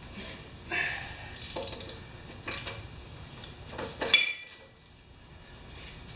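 Scattered metallic clinks and clatter of tools being handled. The loudest is a sharp ringing clink about four seconds in.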